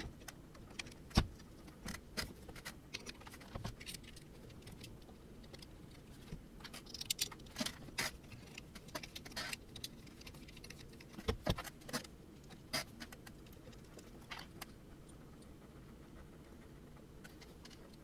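Scattered clicks and light metallic clinks as parts of an Ender 3 Pro 3D printer kit are handled and fitted together. They come in clusters about a third and two-thirds of the way through, and thin out near the end.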